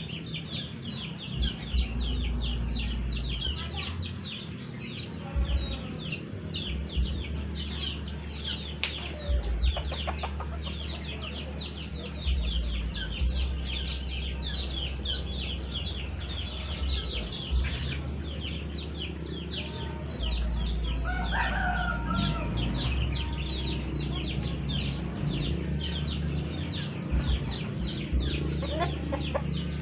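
Birds chirping in a dense, rapid stream of high-pitched downward chirps, several a second. A short, louder, lower call stands out about two-thirds of the way through, over a low rumble.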